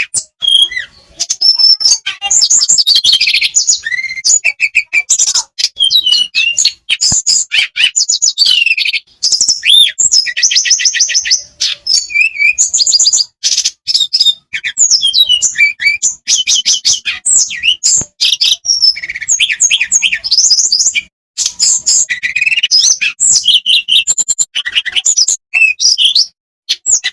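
Tledekan songbird singing a long, fast, varied song of high trills and whistled phrases, with only brief pauses between phrases.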